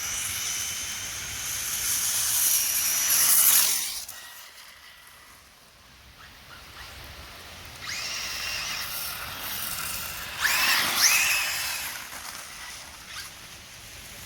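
Custom-built Arrma Typhon RC car on a 4S battery driving on wet ground: its electric motor whines, growing louder until it cuts back sharply about three and a half seconds in. Further on it comes back, with the whine rising and falling under throttle, over a hiss of tyres in water.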